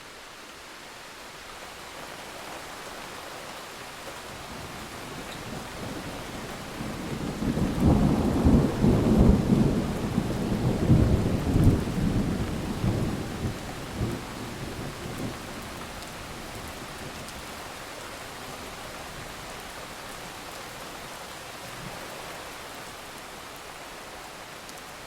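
Steady rain with a long rumble of thunder that builds about seven seconds in, is loudest over the next few seconds, and dies away over several more.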